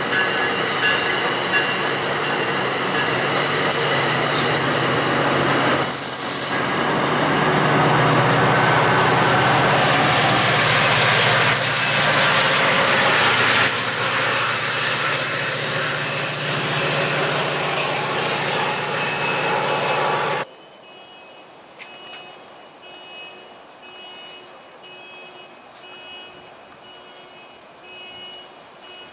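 MARC bilevel commuter train passing close on the near track, a loud steady rush of wheels on rail over a low hum, swelling for a few seconds in the middle. It cuts off suddenly about two-thirds of the way through, leaving a much quieter background with faint, evenly repeated high beeps.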